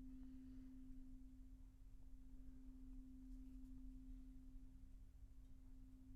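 A soft, single pure tone held steady without a break, with no overtones above it: a sustained sound-healing drone.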